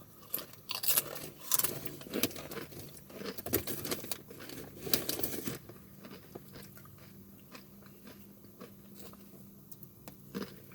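A person biting and chewing crunchy chips close to the microphone, with crisp crunches through the first half that thin out to a few faint chews after about five seconds.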